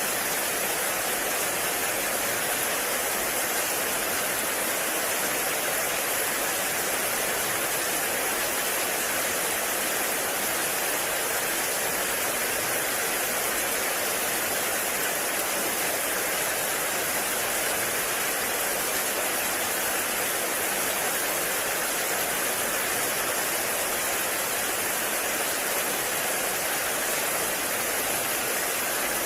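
Heavy rain falling steadily on a forest, an even, unbroken hiss.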